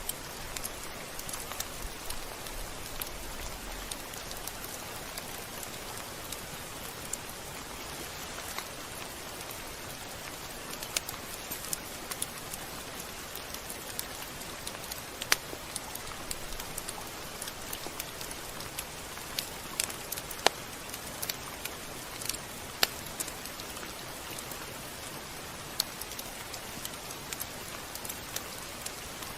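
Steady rain falling on a surface, an even hiss with scattered sharp drop ticks, a few of them standing out louder.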